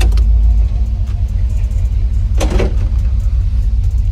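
Car engine idling through a freshly installed aftermarket exhaust, giving a steady deep rumble. The rumble eases slightly just under a second in. There is a brief click at the start, and a short sound in the middle.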